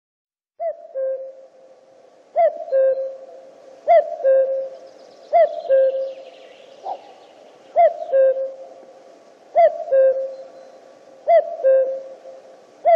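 Male common cuckoo calling its two-note "cu-koo", a higher note dropping to a lower one. The call repeats about every second and a half, eight times, starting just after half a second in.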